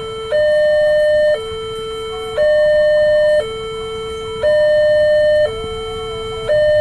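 Level-crossing warning alarm sounding a two-tone signal, switching between a higher and a lower note about once a second, the higher note louder: the crossing is closed because a train is approaching or passing.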